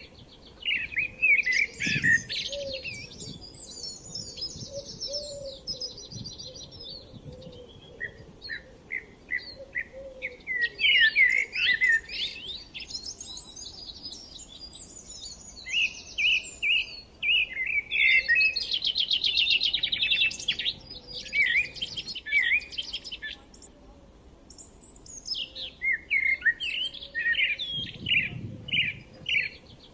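Several songbirds chirping and trilling at once, overlapping quick chirps and fast trills. The chorus thins out twice, about midway and again shortly before the end, then picks up again.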